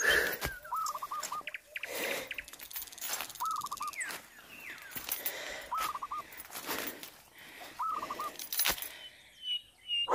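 A bird calling over and over, each call a quick run of four or five short notes, repeated about every two to three seconds. Under it are scattered crackles and rustles, the steps of someone climbing a trail.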